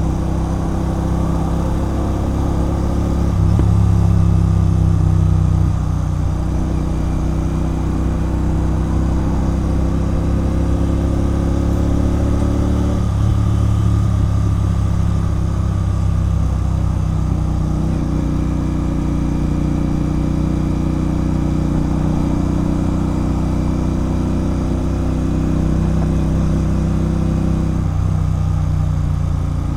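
Royal Enfield Continental GT 650's 648 cc parallel-twin engine running through a loud aftermarket Red Rooster Performance exhaust while being ridden. The note swells louder a few seconds in, and its pitch changes abruptly at about 13 seconds and again near the end.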